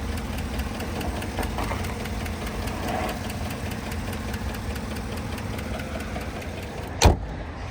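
2017 Chevy Tahoe's V8 engine idling steadily with a fast, light ticking that is still there after the shop replaced the cylinder head and injectors. A single sharp click sounds near the end.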